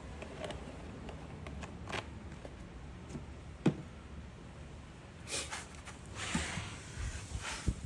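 Handling noises from measuring out engine oil: scattered light clicks and taps, one sharper knock a few seconds in, and short rustling or pouring-like patches near the end.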